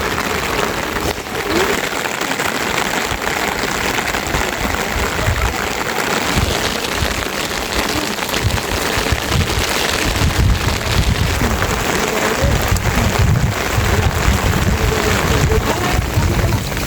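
Steady rain falling, an even hiss of drops, with a low rumble coming and going in the second half.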